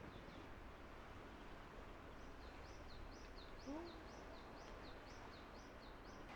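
A bird singing faintly, a quick run of short high notes repeated about three times a second, over quiet outdoor background noise.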